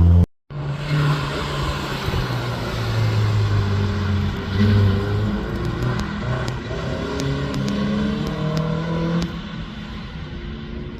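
Rally car engine revving and running under load, its pitch rising and falling with the throttle, with sharp clicks in the middle and a drop to a quieter note at about nine seconds in. The sound cuts out briefly just after the start.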